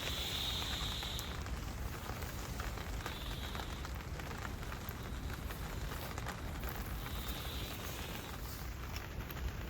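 Steady rain pattering, a dense scatter of small drops.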